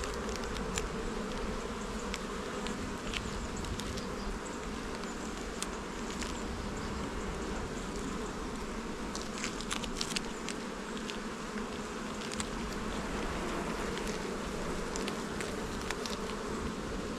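Honey bee colony buzzing in an opened hive: a steady, dense hum of many bees, with a few faint ticks.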